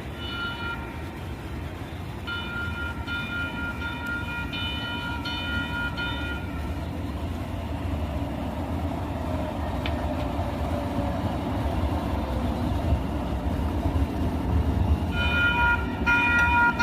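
Light rail train running with a low rumble that grows steadily louder. Over the rumble a high, ringing warning signal sounds in a quick run of repeated pulses for several seconds, falls silent, then starts again near the end.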